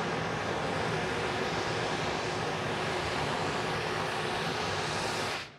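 Steam-hauled passenger train rolling downhill on the track, a steady roar of wheel and rail noise with no clear exhaust beat. It cuts off suddenly near the end.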